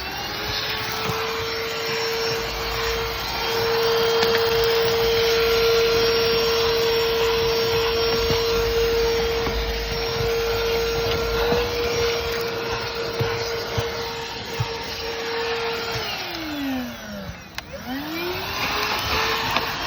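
STIHL SEA 20 cordless handheld vacuum running: its motor spins up to a steady high whine over the rush of air. Near the end it is switched off and winds down, then is switched back on and spins up again.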